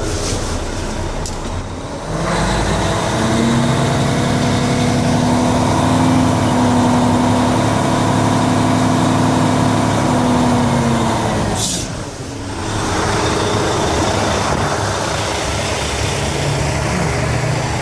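Freightliner 114SD's Detroit DD13 diesel running at raised revs with the PTO engaged, driving the hydraulic pump that raises the Galfab roll-off hoist toward its fully tucked position. The engine picks up about two seconds in and holds steady, dips right after a short sharp hiss of air about twelve seconds in, then picks up again.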